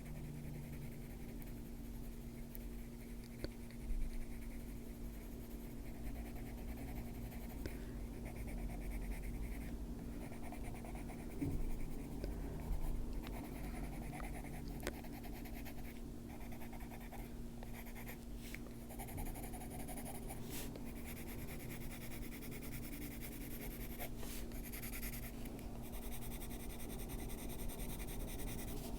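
Coloured pencil being stroked on paper, faint scratchy shading in short runs, with a steady low background hum.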